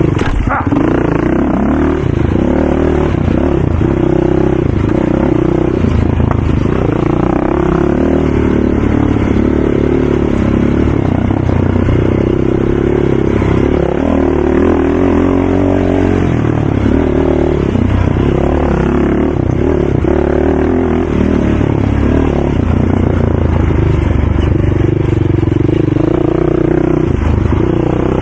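ATV engine running hard without a break, its pitch shifting up and down with the throttle.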